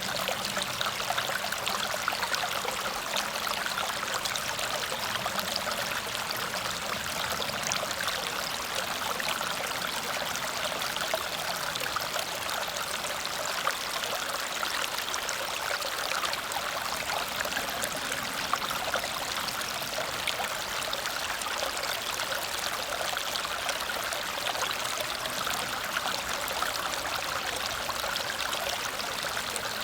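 Small waterfall splashing over rocks in a steady, even rush, with no pauses or changes.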